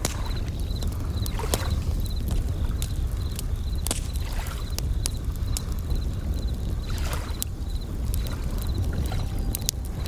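Bell crickets chirping in short trills about twice a second over waves washing in about every three seconds, with a low surf rumble underneath. A wood fire crackles with scattered sharp pops.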